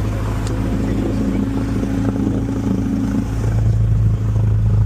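Single-engine Cessna's piston engine running, a steady drone that grows louder about three and a half seconds in as power comes up for takeoff.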